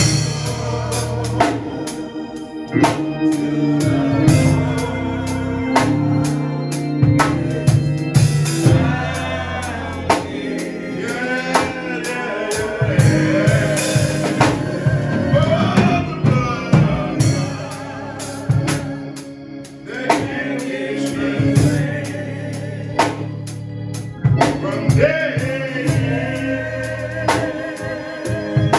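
Gospel music: singing over Hammond organ and drum kit, with a steady beat.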